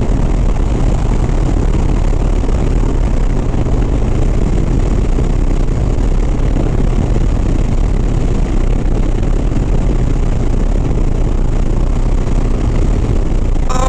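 Harley-Davidson Sport Glide's V-twin engine running steadily at highway cruising speed, under a constant rush of wind and road noise.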